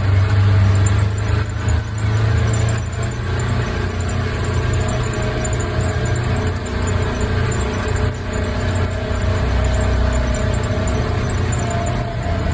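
Off-road vehicle engine running steadily on the trail, with a higher whine coming and going in the second half.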